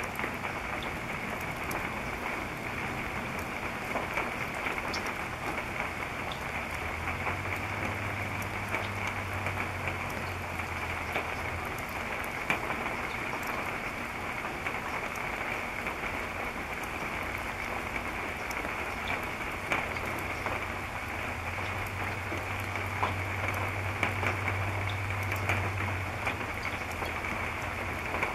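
Steady rain falling, an even hiss scattered with many small drop ticks. A low hum swells in twice for a few seconds.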